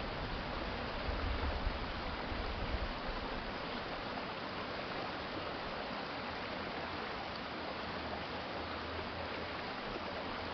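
Water of a city stream flowing steadily, with a brief low rumble about one to three seconds in.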